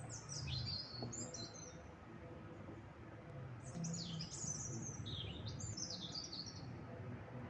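A small bird singing in two phrases of quick, high sweeping notes, one at the start and another about four seconds in, over a low rumbling background.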